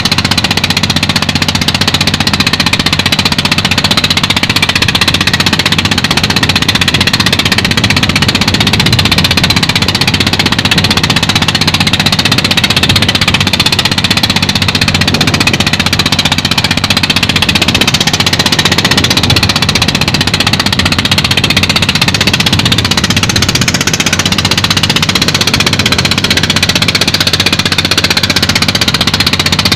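Fishing boat's engine running steadily and loudly, with a constant low hum and a rough clatter over it.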